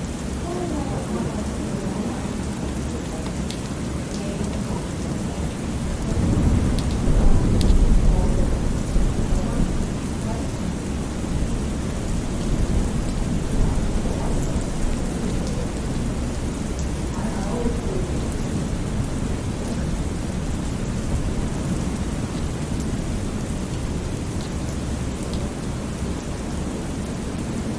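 Thunderstorm ambience: steady rain with a low roll of thunder that swells about six seconds in and dies away over the next few seconds.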